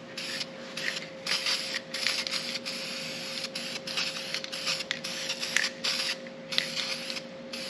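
Aerosol spray can of primer being sprayed onto a sheet-metal patch panel in a series of short hissing bursts.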